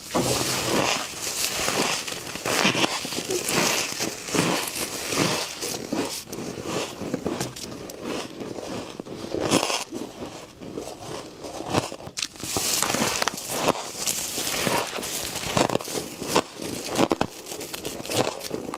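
Humidifier frost being bitten and chewed close to the microphone: dense, irregular crackling crunches, one after another.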